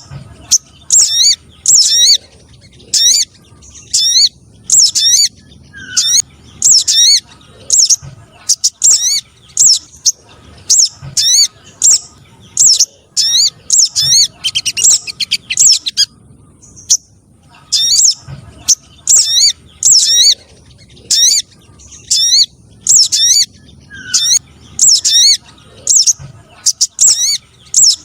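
Recorded bird-lure calls of spiderhunters and sunbirds: short, sharp, high sweeping chirps repeated in quick groups about twice a second, with a break of a second or two near the middle.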